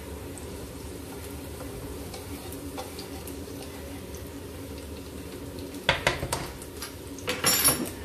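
Chopped red cabbage and carrot frying quietly in oil in a wok over a steady low hum. About six seconds in, and again near the end, a spatula clatters and scrapes against the pan as the vegetables are stirred.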